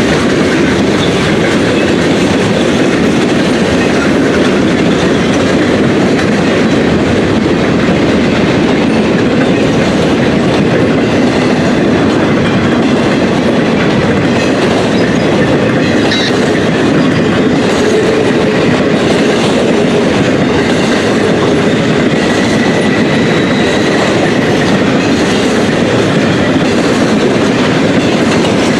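Train cars rolling past at close range, the wheels clacking steadily over the rail joints.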